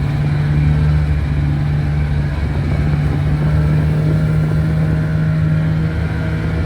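Engine of a 1970 Cony kei truck running at a steady speed under way, holding one even pitch with a slight dip about two and a half seconds in.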